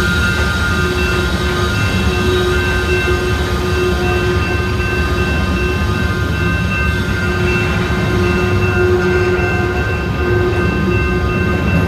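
Train passing at close range: a steady, loud rumble of rolling railcars and wheels, with several steady high-pitched squealing tones above it throughout.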